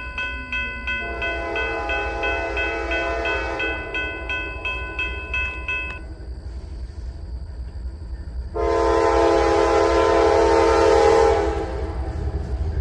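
Diesel freight locomotive sounding its horn, with a bell ringing rapidly and the engine rumbling underneath. A second, louder horn blast lasts about three seconds, starting a little past the middle.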